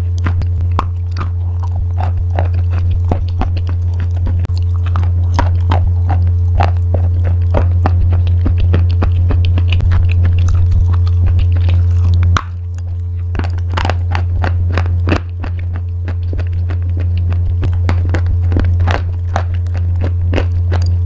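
Crunchy pasta being bitten and chewed close to the microphone: many sharp, quick cracks and crunches throughout, over a steady low hum.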